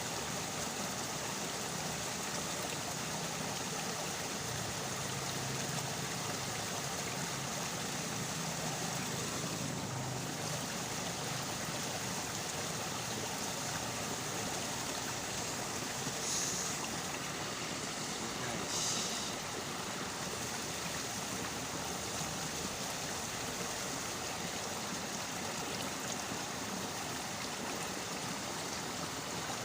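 Steady rushing of a flowing stream. Two brief, sharper, higher sounds come about halfway through.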